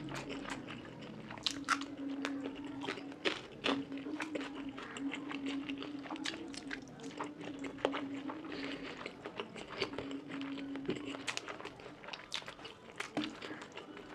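Close-miked chewing of a meal of fish curry and rice, with many irregular wet mouth clicks and crunchy bites.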